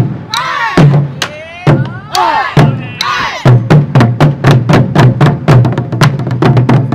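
Pungmul (Korean folk percussion) ensemble playing, with rapid, sharp drum and gong strikes. Voices call out over the first half, and from about halfway the strikes settle into a fast, steady beat.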